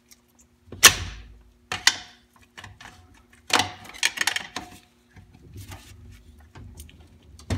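Metal tools and parts knocking and clanking against a 4L80E automatic transmission during teardown. Three sharp knocks come about a second in, near two seconds and at about three and a half seconds, with lighter clicks between them.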